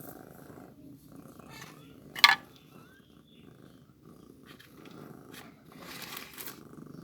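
A cat purring steadily with a low rumble, with one sharp, loud click about two seconds in and a brief rustle near the end.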